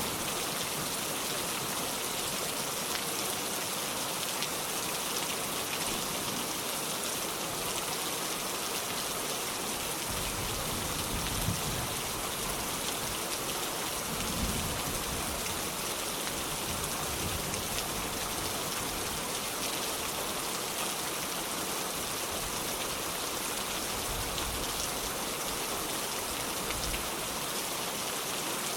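Heavy rain falling steadily on a metal roof, a dense even hiss of drops with no letup. A couple of brief low rumbles come and go near the middle.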